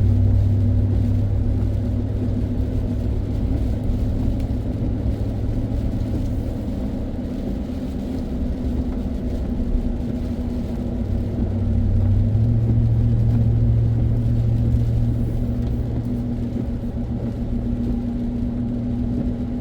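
A car's engine and tyres droning steadily while driving, with a low hum whose pitch steps up slightly about twelve seconds in.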